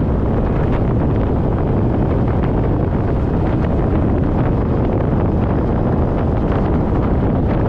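Steady, loud wind noise buffeting a GoPro action camera's microphone on a moving motorcycle, with the bike's running and road noise underneath.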